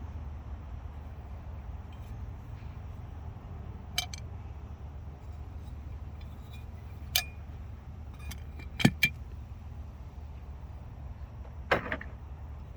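Scattered sharp metallic clicks and clinks, about half a dozen, including two quick pairs, from a restored 1967–1972 Chevrolet truck tilt steering column being handled and worked, over a steady low hum.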